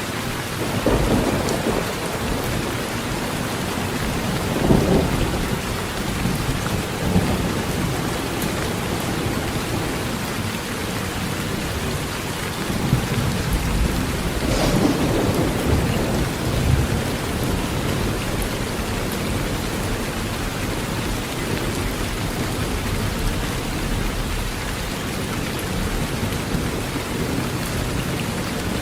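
Heavy rain pouring steadily on a metal roof, with low thunder rumbling several times: about a second in, around five seconds in, and longest in the middle of the stretch.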